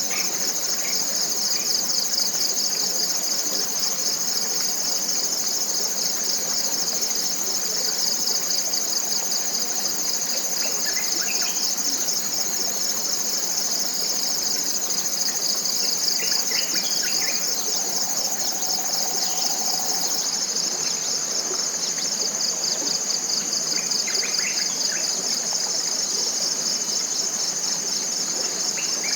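A steady, high, rapidly pulsing chorus of forest insects, with a few faint short bird chirps now and then.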